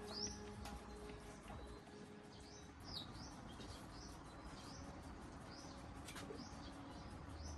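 Small bird chirping repeatedly, short high chirps about one or two a second, faint over a low background hum with a few light clicks.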